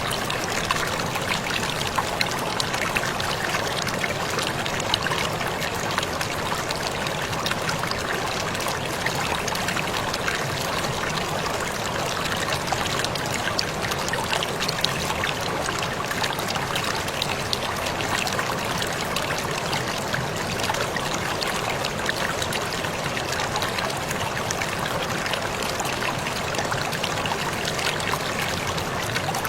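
Waterfall pouring steadily, a continuous rush of falling and splashing water.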